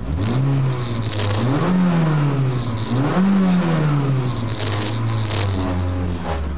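Peugeot 106 rally car's engine, heard from inside the cabin, revved while the car stands still: the revs jump up from idle, rise and fall twice, hold steady, then drop back to idle near the end.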